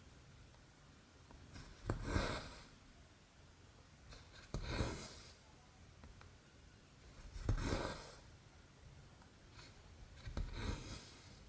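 Cotton floss pulled through 11-count cross stitch fabric, four separate rustling pulls about three seconds apart.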